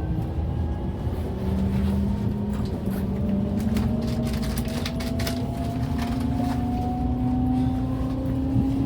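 Interior running sound of a JR Central 383 series electric train: the VVVF inverter and traction motors give a whine that rises slowly in pitch as the train picks up speed, over a steady rumble of wheels on rail, with a few clicks in the middle.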